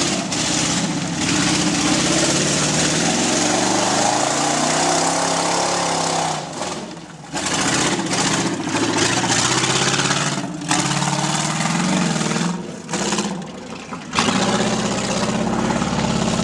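Off-road competition truck's engine revving hard and easing off over and over, its pitch climbing and falling, with short dips about seven seconds in and again near the end.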